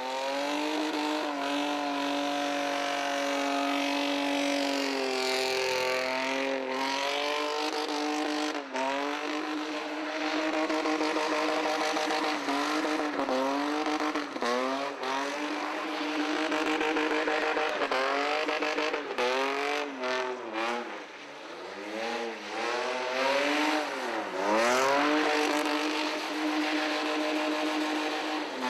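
BMW E30 3 Series drift car's engine revving hard and held at high revs while its rear tyres spin in a smoky burnout, the revs dipping and climbing back many times, with a deeper drop a little after twenty seconds.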